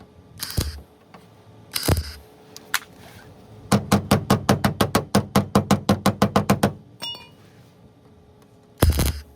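Sheet metal being struck: a few separate knocks, then a fast, even run of about eight hits a second for about three seconds, a brief ring, and one loud knock near the end.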